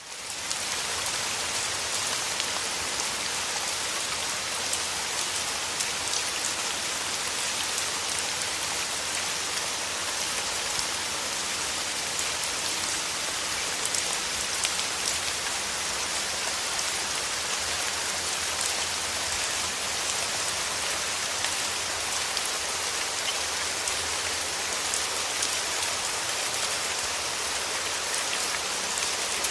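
Steady rain falling, a dense even hiss of drops pattering on a surface with no let-up.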